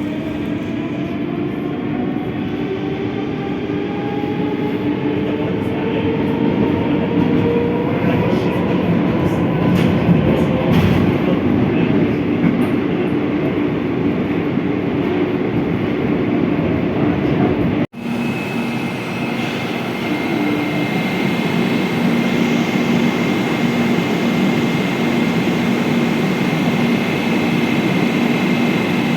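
Metro train pulling away, its electric traction motors whining in several tones that rise in pitch over the first several seconds, then running steadily with wheel-on-rail rumble. A little past halfway the sound cuts off abruptly and another stretch of metro train running at steady speed follows, with a steady high whine over the rumble.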